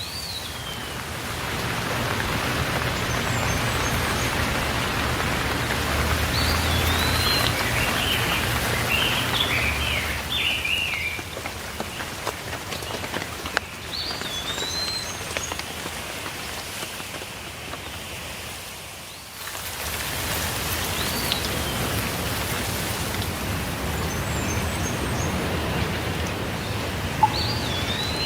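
Steady rainfall with birds calling over it: short rising-and-falling chirps every few seconds, and a quicker run of calls around eight to ten seconds in. The rain eases for a while in the middle and comes back fuller about two-thirds of the way through.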